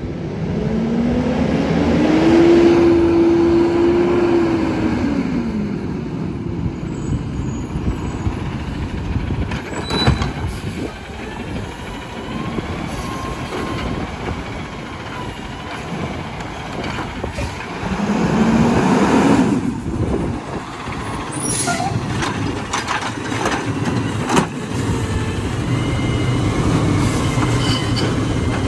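McNeilus AutoReach automated side-loader garbage truck working a pickup: the engine revs up to drive the hydraulics, with a whine that rises, holds and falls near the start and rises again about two-thirds through. Sharp knocks and clatter come about ten seconds in and again between about 21 and 24 seconds.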